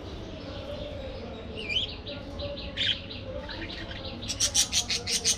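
A flock of budgerigars chirping and warbling, ending in a quick run of sharp repeated chirps, several a second.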